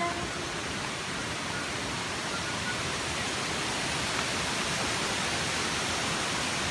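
Waterfall: falling water rushing in a steady, even hiss that grows slightly louder.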